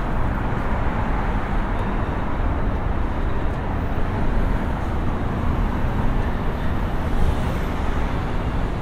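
Steady low city rumble of traffic and machinery, heard inside a small enclosed chamber that catches and resonates it.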